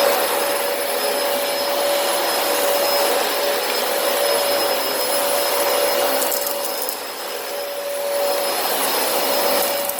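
Dyson DC25 Ball upright vacuum running steadily, a constant whine over its airflow noise, with a brief dip in loudness about seven seconds in.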